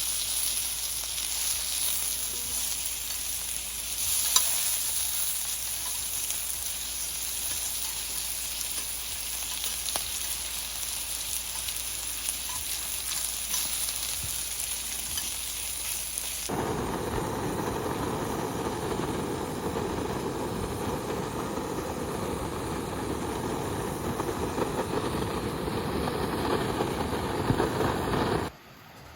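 Food sizzling on a hot grill, a steady hiss. About halfway through it gives way abruptly to a steady, lower rushing noise that stops suddenly near the end.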